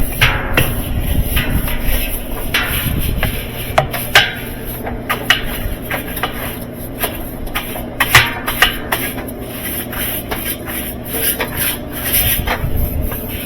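Irregular knocks, taps and scraping of hard parts being handled and rubbed during work on a top-load washing machine, over a low steady hum.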